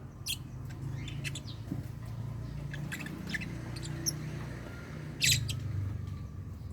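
Lovebirds chirping in a colony cage: scattered short, sharp calls, with the loudest cluster about five seconds in, over a steady low hum.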